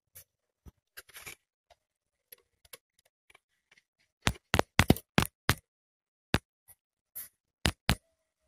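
A series of sharp clicks: scattered faint ones at first, then a quick run of about six loud clicks around the middle and a few more, spaced out, near the end.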